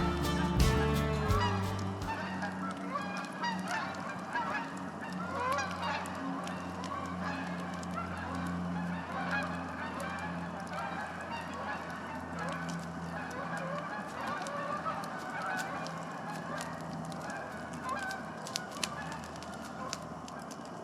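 A flock of geese honking, many short calls overlapping throughout, with scattered sharp crackles from a campfire.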